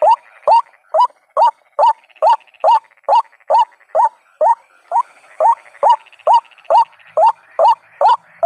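White-breasted waterhen calling, a rising note repeated steadily about two and a half times a second: the waterhen lure call used to draw the birds in for trapping.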